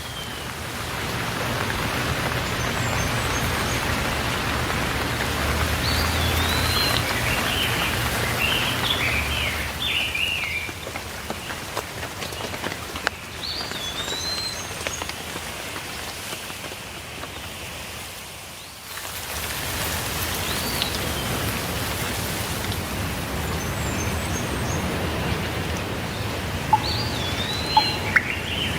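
Steady rain with songbirds chirping at intervals over it. The rain dips briefly about two-thirds of the way through and then resumes, and a few sharp drips tap near the end.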